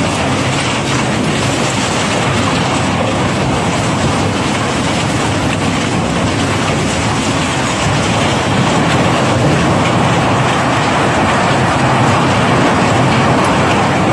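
Cobblestones clattering and tumbling in a steady, dense stream as a barge's rock cargo is unloaded, over a low machinery rumble. It grows slightly louder about eight seconds in.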